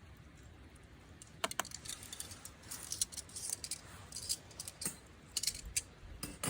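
Irregular light clicks and clinks, a small hard-object clatter, starting about a second and a half in and continuing in uneven runs.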